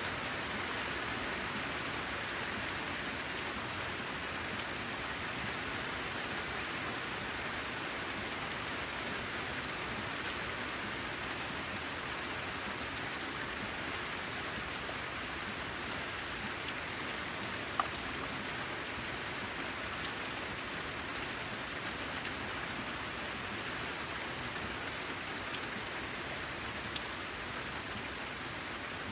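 Steady rain drumming on a corrugated zinc roof, an even hiss with single drops ticking out of it here and there, the sharpest about 18 seconds in.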